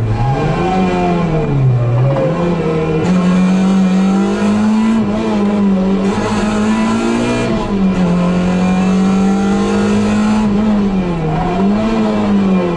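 Suzuki Swift GTi Mk II rally car's 1.3-litre twin-cam four-cylinder engine driven hard, heard from inside the cabin. The revs dip about two seconds in, climb and hold high for several seconds, then dip and climb again near eight and eleven seconds.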